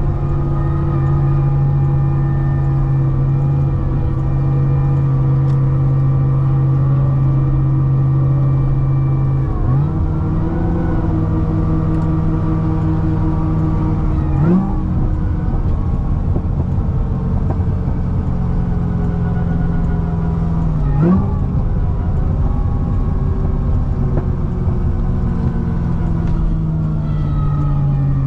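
Supercharged V8 of a modified C6 Corvette ZR1 running at steady cruise. Its drone jumps up sharply in pitch three times, several seconds apart, then slowly falls away near the end.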